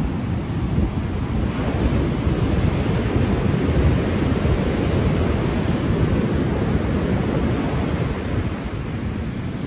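Ocean surf: waves washing in as a steady rush of noise, with a wave swelling louder about a second and a half in and easing off after a few seconds.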